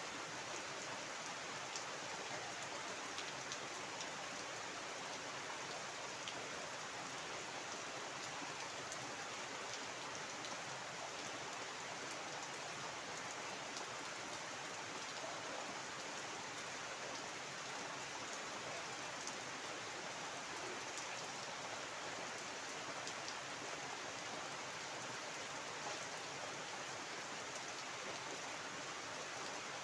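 Heavy rain falling steadily onto standing water and garden foliage: a constant even hiss flecked with faint scattered drop ticks.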